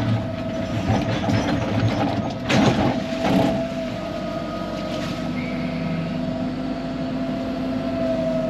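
Excavator engine running steadily with a steady whine above it, and two short, louder rough noises about two and a half and three and a half seconds in.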